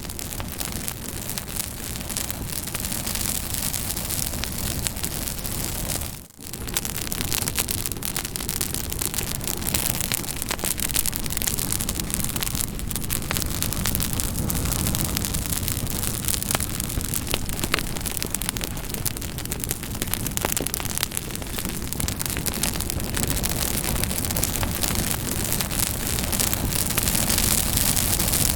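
Campfire burning steadily, its wood crackling and popping in many small sharp snaps over a constant rushing hiss of flame. The sound briefly drops out about six seconds in.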